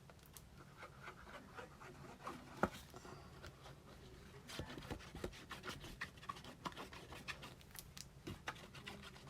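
Faint rustling, rubbing and light tapping of paper and cardstock being handled and glued down by hand, with one sharper tap about two and a half seconds in and a busier run of small clicks and rubs in the second half.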